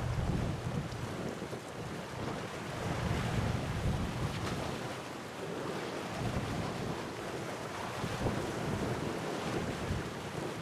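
Wind buffeting the microphone over the steady wash of sea waves, with a low rumble that swells and eases.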